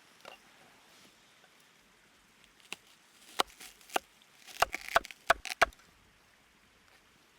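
Sharp chopping strikes on wood, about eight of them, sparse at first and then coming quickly in a cluster.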